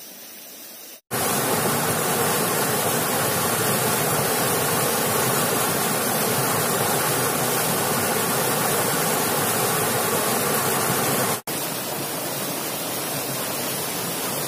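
Waterfall rushing: a loud, steady roar of falling water. It starts abruptly about a second in, breaks off for an instant near the end, and carries on a little quieter.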